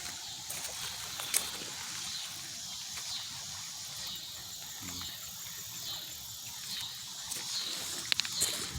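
Outdoor creek ambience: a steady high hiss with faint, repeated high chirps and a few short sharp clicks, a cluster of them near the end.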